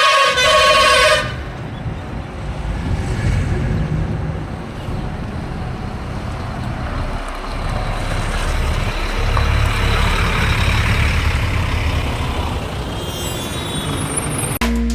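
A vehicle horn sounding, which stops about a second in, followed by steady engine and road noise from a vehicle on the move.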